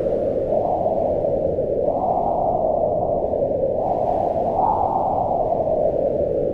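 Howling mountain wind: a steady hollow whoosh whose pitch swells up and falls back every couple of seconds, rising near the middle and again past the halfway point.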